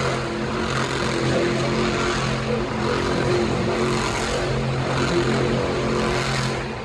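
Monster truck's engine running hard at a steady, high pitch under a dense wash of noise, swelling briefly twice.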